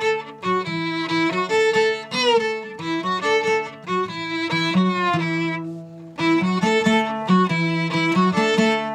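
Live band music led by a violin playing a melody over lower string chords, with a downward slide of pitch about two seconds in and a brief lull near six seconds.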